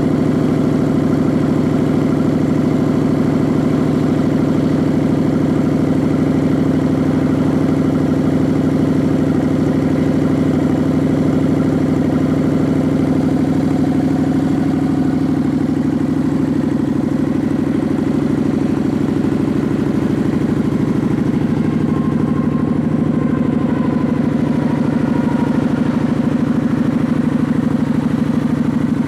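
2006 Kawasaki Vulcan 900's V-twin idling steadily through an aftermarket Vance & Hines exhaust.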